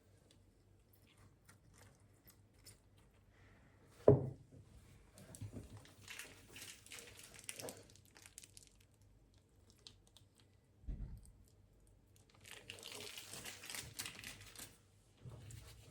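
Quiet handling sounds: a sharp knock about four seconds in, a dull thump later, and two stretches of crinkling.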